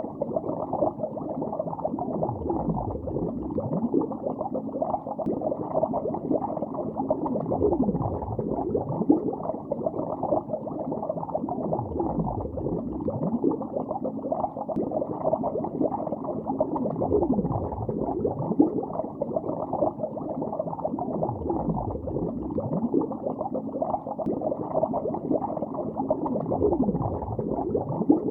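Bubbles rising and gurgling in water, heard underwater: a dense, continuous bubbling full of short pitch sweeps, muffled, with nothing above about 2 kHz. A deeper low gurgle comes back about every five seconds.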